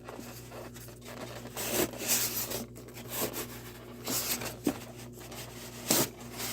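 Packaging being handled: irregular rustling and rubbing swishes with a few light clicks and knocks near the end.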